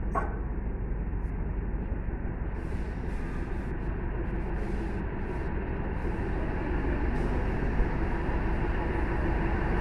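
Diesel-electric multiple unit (DEMU) train rolling into the station: a steady low rumble of engine and wheels on rail, with short bursts of hiss from about three seconds in.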